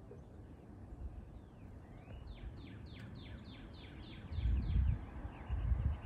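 A songbird singing a quick run of about nine downward-slurred whistled notes. After that, a louder low rumble on the microphone from about four seconds in.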